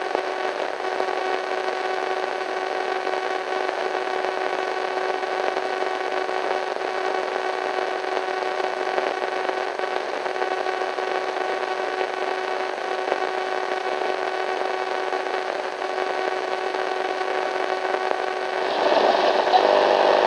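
Radio static: a steady hiss with a few faint steady tones running through it, turning louder and brighter near the end.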